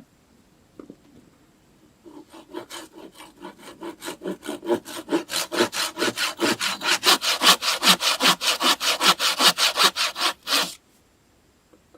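Hand saw cutting wood in quick back-and-forth strokes, about four a second, growing louder as it goes and stopping suddenly near the end.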